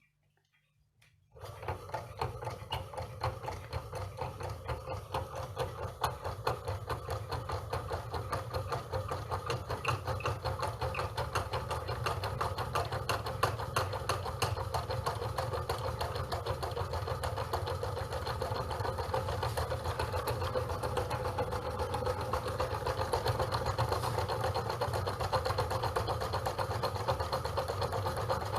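Small model Stirling engine with diaphragm pistons running with a fast, even mechanical clatter. It starts suddenly about a second in and grows slightly louder as it runs.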